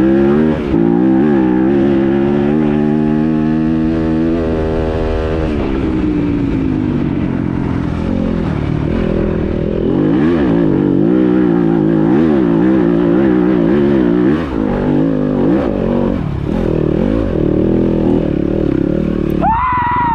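Dirt bike engine run hard up a hill climb, its pitch climbing, holding, then dropping back, and later rising and falling quickly over and over as the throttle is worked.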